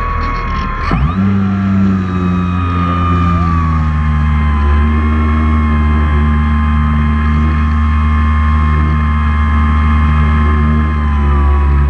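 Multirotor drone's motors and propellers whining steadily, several steady tones that dip sharply and then rise again about a second in as the motor speeds change.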